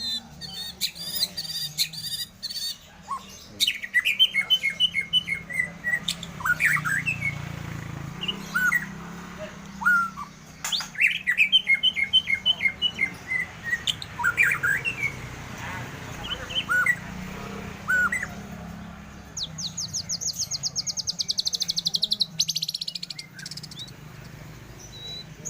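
Several caged lovebirds calling at once: strings of quick falling chirps, then a fast, high trill of evenly repeated notes from about 19 seconds in, lasting some four seconds.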